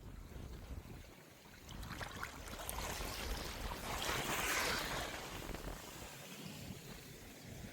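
Small sea waves washing onto the beach, one wash swelling to a hiss about four seconds in and then drawing back.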